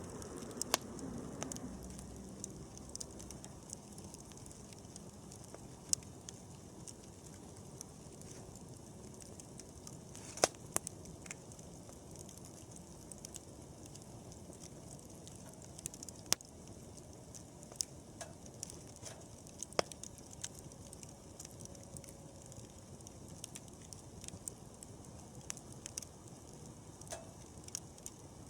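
Wood campfire burning: scattered sharp crackles and pops at irregular intervals over a soft steady hiss of the flames.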